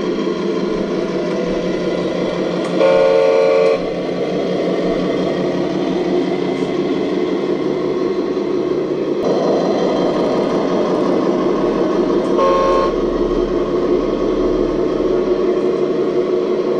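RC model excavator running with a steady electric motor and pump whirr, which grows louder about nine seconds in as it works. A horn-like beep sounds twice: about a second long near the start, and a shorter one later.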